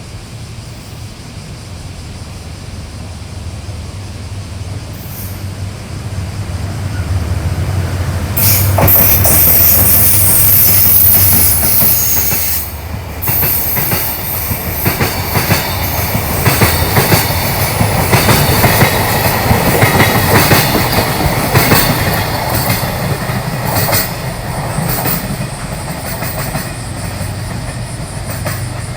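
JR Freight DF200 diesel-electric locomotive approaching and passing: a low engine hum builds, then a loud passage about eight seconds in, with a run of rapid wheel clicks over the rail joints that eases near the end.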